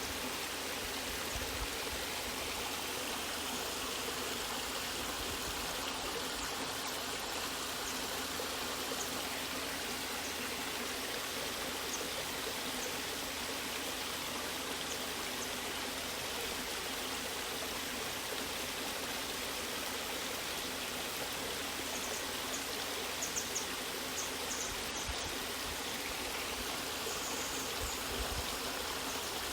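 Steady rushing of a waterfall or fast stream, an even wash of water noise.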